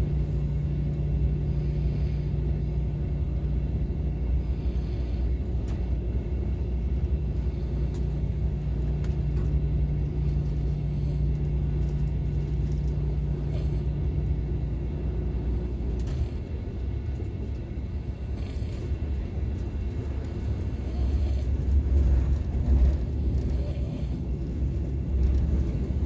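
Steady low rumble of a KTX high-speed train running, heard inside the passenger car. A steady hum in the rumble drops out about two-thirds of the way through, and the low rumble swells a little near the end.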